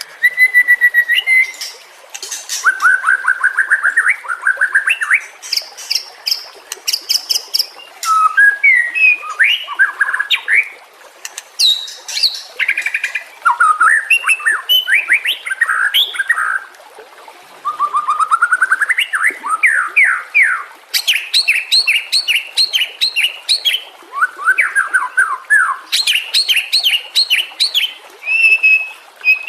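White-rumped shama singing a long, varied song: series of quick rising notes, clear held whistles and rapid high-pitched ticking phrases, one after another with only short pauses.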